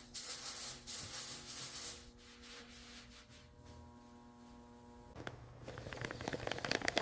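Clear coat being sprayed in short hissing runs of about a second each, then a quieter stretch. From about five seconds in there are crackling clicks and rubs.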